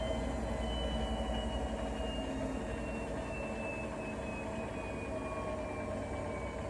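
Bosch Serie 4 washing machine running with a steady low hum, and a thin motor whine that slowly falls in pitch as the drum slows down.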